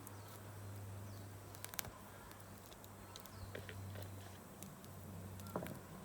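Wood campfire crackling with scattered small snaps and two sharper pops, one a little under two seconds in and one near the end, over a steady low hum.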